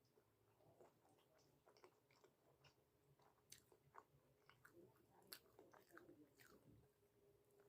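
Faint close-up chewing: soft, irregular mouth clicks and smacks of someone eating.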